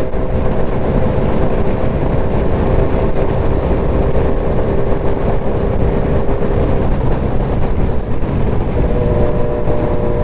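Wind rushing over the helmet mic, mixed with a 2003 Yamaha R1's inline-four engine, fitted with an aftermarket exhaust, cruising at steady revs at highway speed. The engine's steady note drops away about seven seconds in and comes back at a slightly different pitch near the end.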